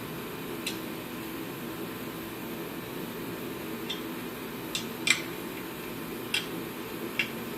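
Light clicks and taps of small tools and metal parts being handled during work on a kerosene torpedo heater, six in all, the loudest about five seconds in, over a steady background hum.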